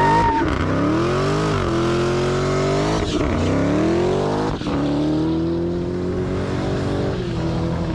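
Car engine revving hard under acceleration, its pitch climbing and then dropping sharply three times, about one and a half, three and four and a half seconds in, like shifts up through the gears.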